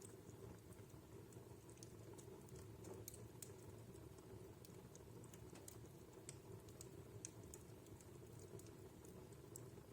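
Wood fire in a fireplace crackling faintly: scattered, irregular sharp pops and ticks over a steady low background.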